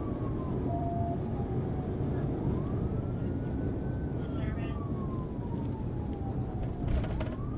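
Police car siren on a slow wail, its pitch sweeping up and down about once every four seconds, over a heavy steady rumble of engine and road noise from a car at speed. A brief crackle cuts in near the end.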